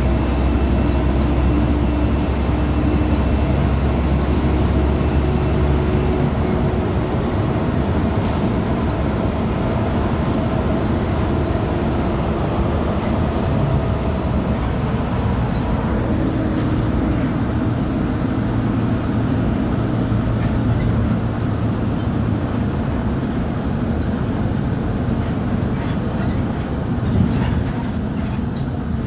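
Volkswagen 17.230 OD Euro V bus's diesel engine running steadily, its note shifting about six seconds in and again around sixteen seconds.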